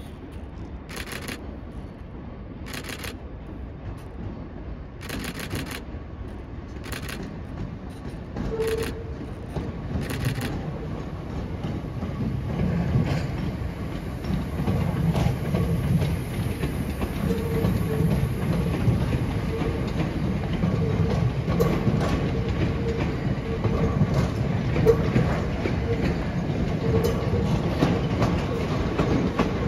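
Southeastern electric multiple unit running in over the pointwork, its wheels clattering over rail joints and crossings, with a rumble that grows louder as it nears and passes. In the first ten seconds there are six short sharp hissing pulses, about one every two seconds.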